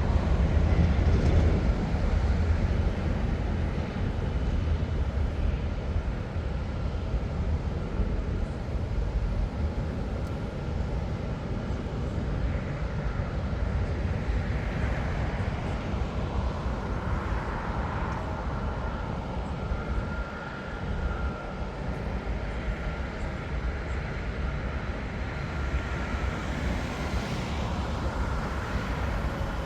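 Jet airliner engines rumbling steadily, loudest in the first couple of seconds and then easing off a little, with a faint steady whine joining in the second half.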